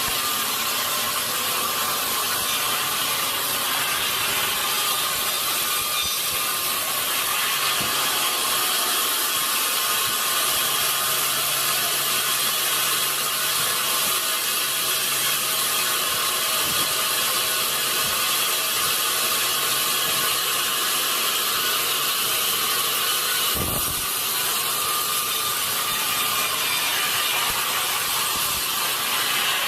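Sawmill saw running steadily through a large redwood log, with the saw and its carriage machinery going without a break, plus one short knock about four-fifths of the way through.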